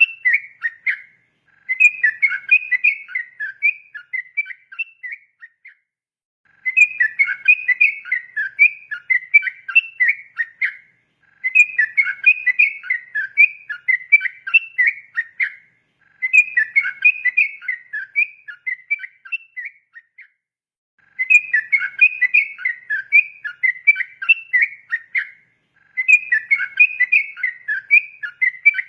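Sooty-headed bulbul (trucukan) singing phrase after phrase of quick, bubbling whistled notes. Each phrase lasts about four seconds and is followed by a pause of about a second.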